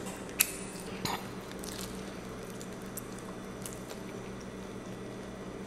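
A child chewing food close to the microphone: a sharp click about half a second in and a softer one soon after, then faint mouth and chewing sounds over a steady low hum.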